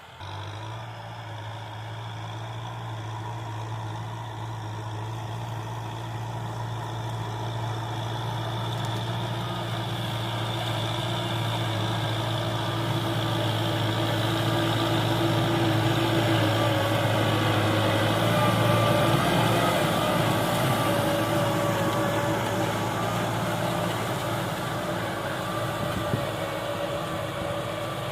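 Tractor engine running steadily while plowing, growing gradually louder over about twenty seconds as it comes closer, then easing off slightly.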